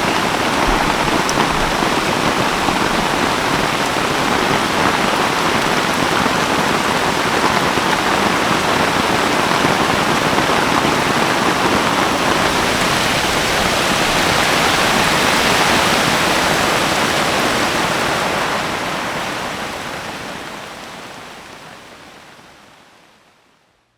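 Rain from a thunderstorm falling steadily, an even rushing patter that fades away over the last few seconds.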